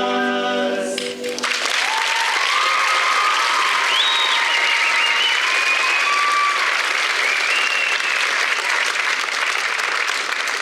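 A choir's final held chord cuts off about a second and a half in, and the audience breaks into applause, with a few whoops and cheers rising above the clapping.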